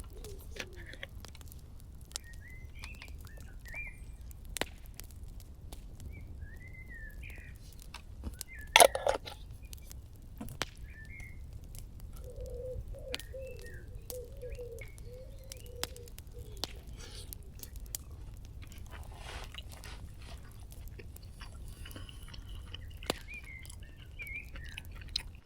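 Birds chirping in short scattered calls, with a lower wavering call for a few seconds around the middle. Sharp scattered clicks run throughout, with one loud click about nine seconds in, over a steady low rumble.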